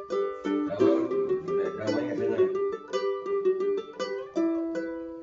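Ukulele playing a picked melody over chords, busy at first, then slowing to a few longer ringing notes toward the end.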